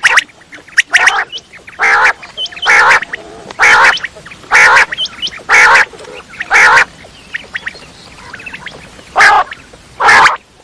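Quail calling: harsh, rasping notes repeated about once a second, with a few short, high, curling notes in the first few seconds. The calls pause for about two seconds and then give two more. This is a quail-call track played as a lure for trapping.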